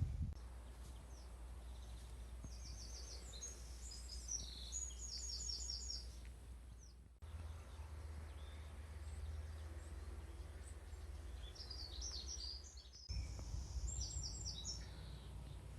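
Small songbirds singing: short phrases of quick, repeated high notes, over a faint steady low background rumble that changes abruptly twice.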